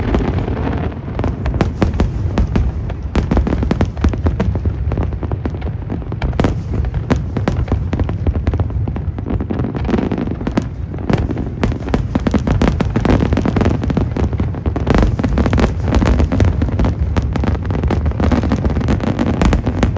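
Aerial fireworks bursting in a rapid, continuous barrage: many bangs and crackles a second over a steady low rumble.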